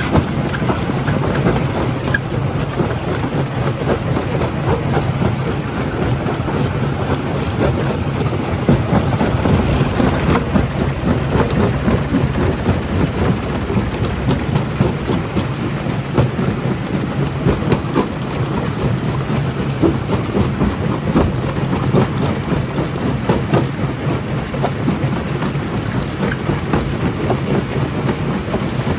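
Primary jaw crusher running under load, crushing rock: a steady low machine hum with a constant, irregular clatter of cracks and knocks from stones breaking in the jaws.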